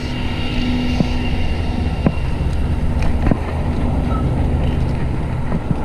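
Wind buffeting the microphone and road rumble while riding a fixed-gear bicycle, with a steady low hum and a few sharp clicks at about one, two and three seconds in.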